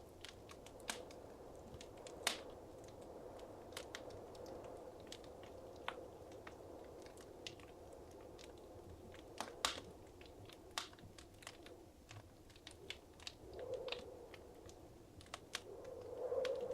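Wood fire crackling in a fireplace: scattered sharp pops and snaps, irregular and a few a second, over a soft steady rush of the flames, which swells a little near the end.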